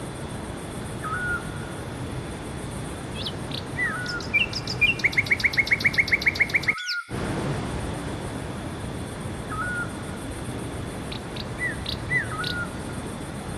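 Several songbirds singing: short repeated chirps every couple of seconds and, near the middle, a fast trill of about a dozen rapid notes, over a steady rushing background. The sound drops out completely for a fraction of a second just after the trill.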